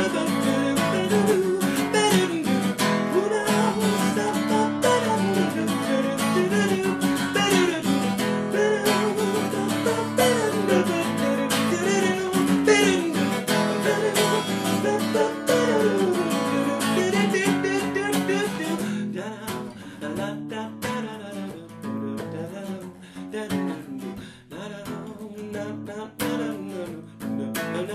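Acoustic guitar strummed steadily, with a voice singing wordless, sliding notes over it; about two-thirds of the way through the playing drops to a quieter, sparser passage.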